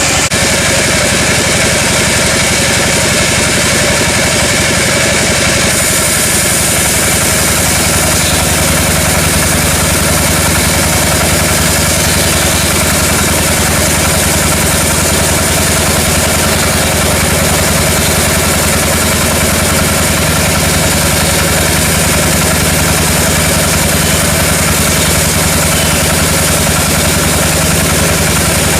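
Engine-driven sawmill machinery running steadily and loudly, its tone shifting slightly about six seconds in and again about eight seconds in.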